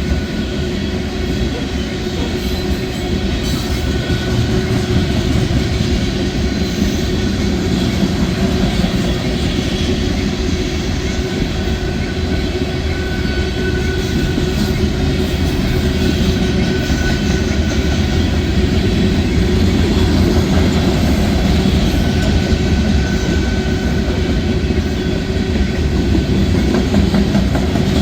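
A freight train rolling past at steady speed: a continuous rumble and rattle of wheels on the rails, with a few brief, faint wheel squeals.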